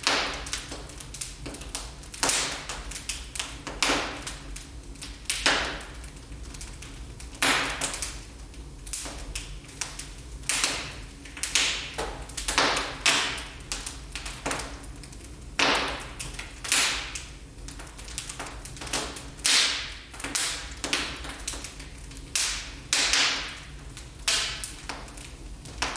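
Wood fire crackling in a fireplace: irregular sharp pops and snaps, some louder than others, over a steady low background.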